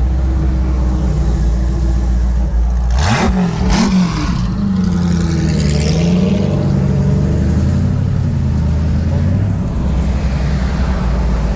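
A car engine idling, then revved sharply twice in quick succession about three seconds in, after which its pitch rises and falls unevenly.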